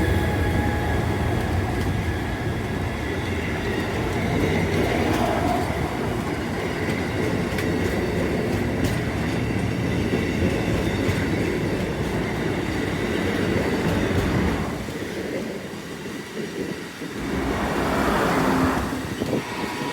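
A train rolling past close by: a steady rumble with wheels clattering over the rail joints. The noise falls away about fifteen seconds in, and a short rush of noise follows near the end.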